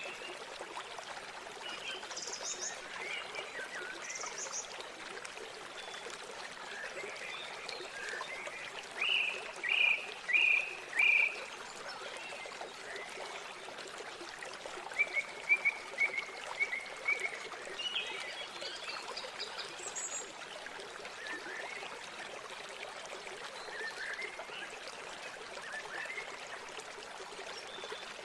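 River water flowing with a steady rush, and small birds chirping over it at intervals: four loud short calls about a third of the way in, and a quick run of chirps around the middle.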